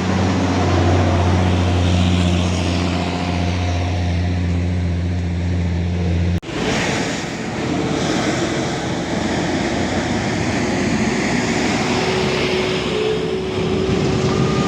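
Heavy diesel truck engine running with a steady low drone. About six seconds in it breaks off abruptly and gives way to a rougher, noisier engine sound.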